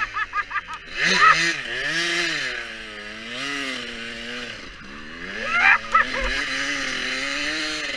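Motocross dirt bike engine revving up and falling back as the throttle is opened and closed. Quick, choppy revs come around the start and again around six seconds in.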